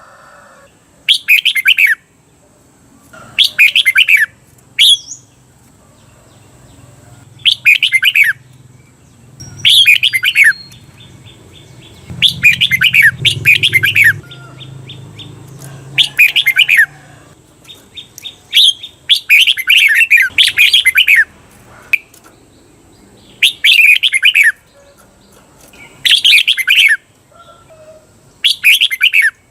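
Red-whiskered bulbul singing short, bright, chattering phrases over and over, about every two seconds, several given twice back to back: the 'doubled' song that keepers play to train caged bulbuls to copy.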